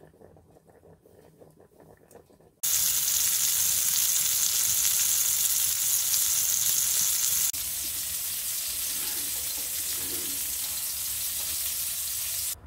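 Sausage patties frying in oil in a pan, a steady loud sizzle that starts suddenly about two and a half seconds in and drops a little in level about halfway through.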